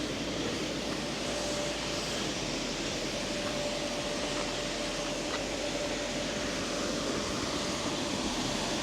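Steady background drone of a busy car wash, with a faint thin whine held from about a second in until near the end.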